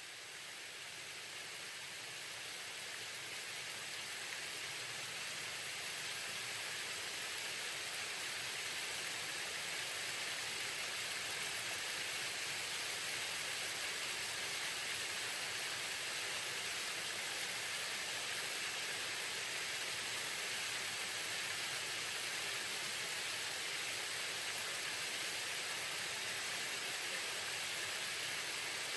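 Waterfall rushing steadily, a constant hiss of falling water that fades in over the first several seconds and then holds level.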